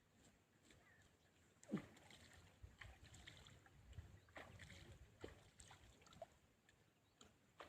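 Near silence with faint, scattered knocks and clicks; the clearest is a short knock just under two seconds in.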